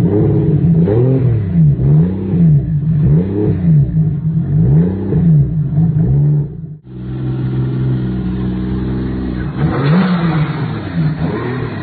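Swapped-in Toyota 1JZ-GTE turbocharged straight-six in a Jaguar E-Type, blipped repeatedly so the revs rise and fall again and again. After a sudden cut it settles to a steady idle, and near the end it is blipped again.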